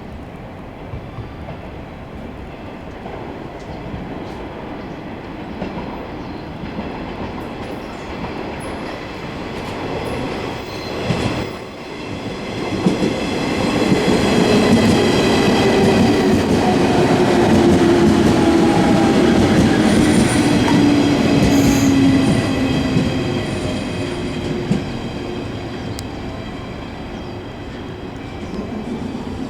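JR 115 series electric train pulling into a station and slowing: rolling and wheel noise builds to its loudest about halfway through. A whine falls steadily in pitch as the train brakes, with a high squeal above it, and the noise dies away as it comes to a stop.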